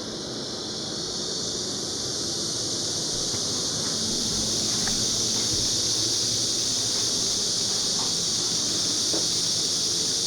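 A steady, high-pitched insect chorus, growing gradually louder, with a few faint clicks.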